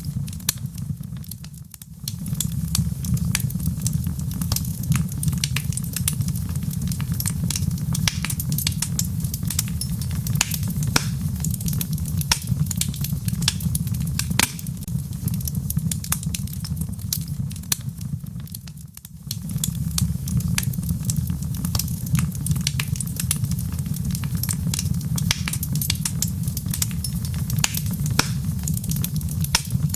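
Wood fire in a fireplace crackling, with frequent sharp pops and snaps over a steady low rumble of burning logs. The low rumble briefly fades out and returns twice, about two seconds in and again about nineteen seconds in.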